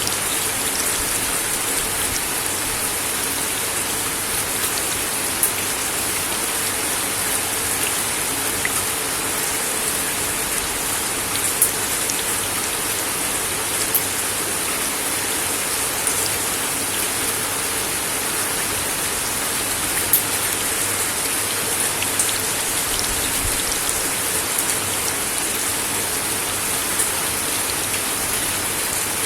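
Steady rain falling on a wooden deck, an even hiss with scattered sharper drop taps.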